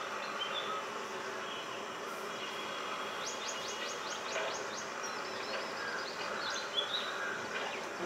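Small birds calling over a steady background noise: a run of about eight quick, high notes a little after three seconds in, then a short trill and a few chirps near the end.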